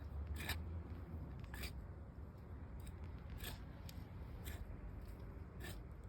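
Shears snipping: a series of sharp cuts, roughly one a second.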